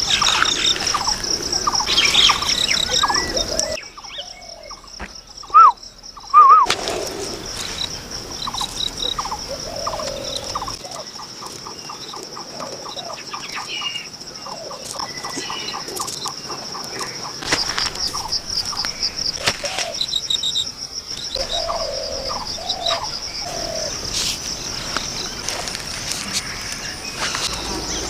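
Birds chirping and calling over a steady, pulsing high-pitched trill, with two loud short rising calls about six seconds in.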